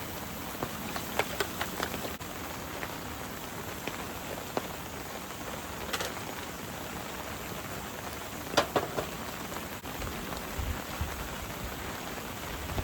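Steady rain falling, with heavy drops tapping sharply now and then, loudest a little past halfway.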